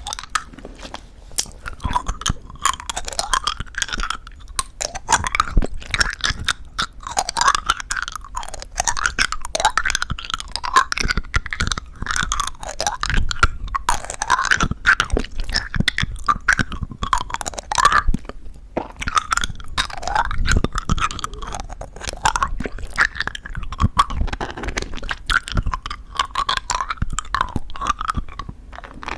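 Close-up chewing of crunchy-coated plum Happy Jelly chewy candies: the crisp sugar shell crackling between the teeth, with wet, sticky mouth sounds as the jelly is chewed and sucked.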